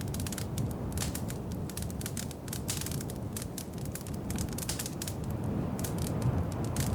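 Wood fire crackling in a fireplace: dense, irregular pops and snaps over a low, soft rumble of the flames.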